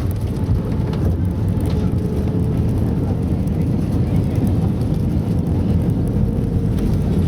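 Steady engine and airflow noise inside the cabin of an Airbus A320-200 airliner, a continuous low rumble with no distinct bumps or thumps.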